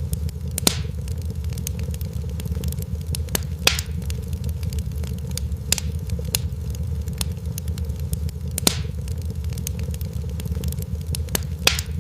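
Wood fire burning with a steady low rumble and a continual scatter of small crackles, broken by four louder pops spread a few seconds apart.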